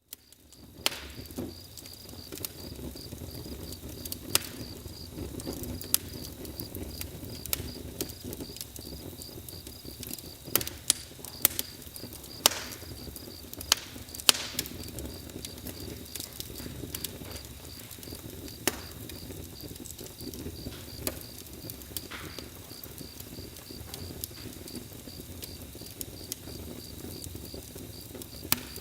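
Campfire crackling, with sharp pops scattered irregularly over a steady low rumble. A cricket chirps in an even, steady rhythm throughout.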